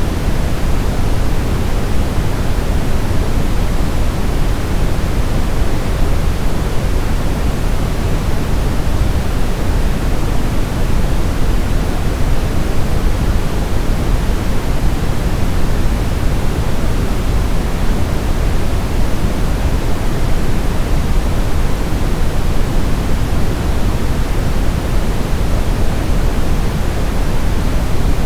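Continuous sleep-aid noise: an even, unchanging rushing hiss, heavier in the low end than in the highs, with no rhythm or events.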